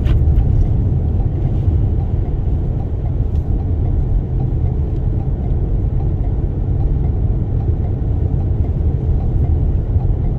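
Steady low rumble of a Toyota Sienna minivan driving, its road, engine and wind noise heard from inside the cabin.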